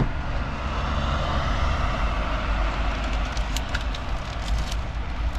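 Road traffic passing: a vehicle's tyre and engine noise swells and eases off over a steady deep rumble. From about halfway through come several sharp clicks.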